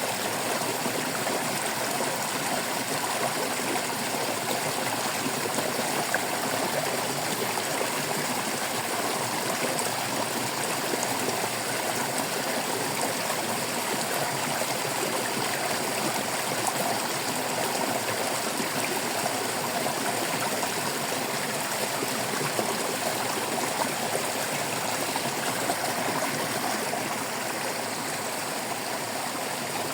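Shallow stream of water babbling and trickling steadily over stones.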